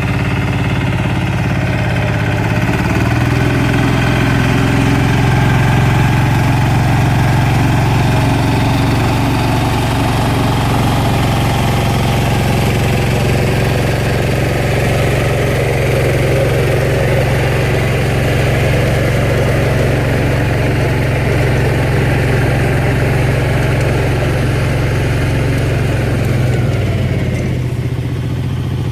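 Valpadana 4RM 180 mini tractor's diesel engine running steadily while driving its rotary tiller. The engine speed steps up about three seconds in, holds, and drops back near the end.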